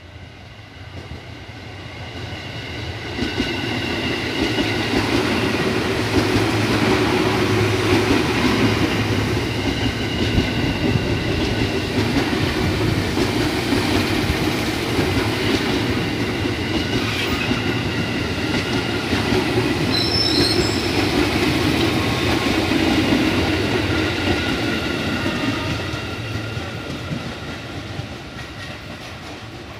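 An electric commuter train passing close by: its noise builds over the first few seconds, holds steady and loud with a high whine over the running of the wheels on the rails while the cars go by, then fades near the end.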